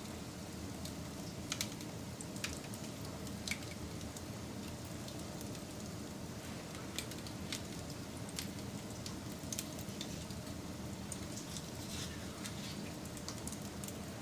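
Wood fire burning with a steady low rush, broken by irregular sharp crackles and pops from the burning wood.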